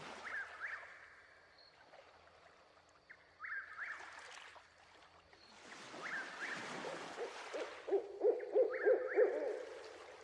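Birds calling: a short gliding call repeats every few seconds, and a run of about six deep hoots comes near the end.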